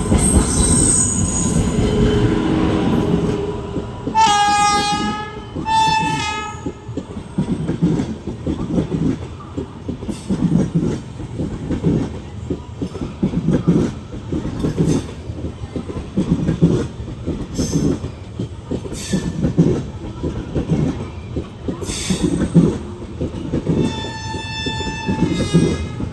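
Express train running at speed, its wheels clattering over rail joints in a steady beat. The locomotive horn sounds two short blasts about four seconds in and again near the end.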